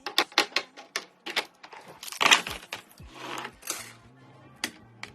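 Quick clicks, taps and clatter of items, such as plastic containers, being handled and set down while stocking a refrigerator, with a loud rustle of packaging about two seconds in and a softer rustle a second later.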